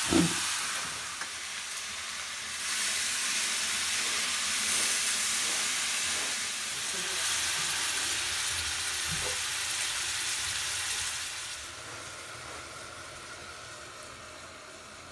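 Food sizzling and frying in hot oil in a cooking pan. It gets louder a few seconds in and dies down near the end.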